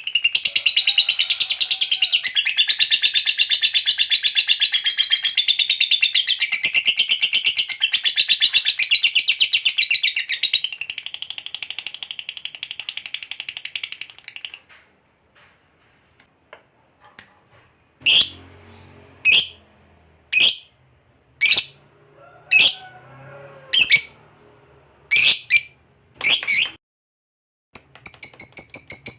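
Lovebird singing its long 'ngekek' chatter, the prized long chattering song: a fast, unbroken high trill for about fourteen seconds. After a short pause comes a string of single sharp chirps about one a second, and the trill starts again near the end.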